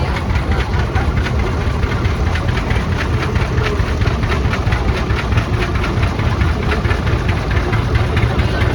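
Antique tractor engine running at low speed, with an even, regular exhaust beat over a steady low rumble.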